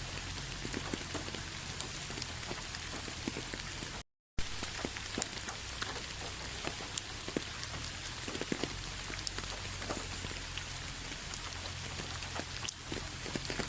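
Rain falling steadily: an even hiss with many separate drop hits. It cuts out completely for a split second about four seconds in.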